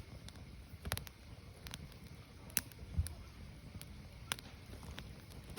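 Firewood burning, crackling with irregular sharp pops a few times a second over a low steady rumble of the fire.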